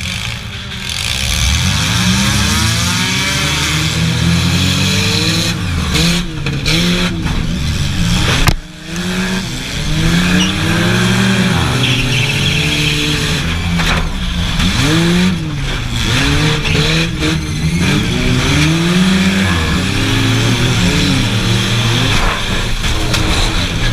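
Several junk race cars' engines revving up and down as they race, their pitches rising and falling and overlapping, with a brief lull about eight and a half seconds in.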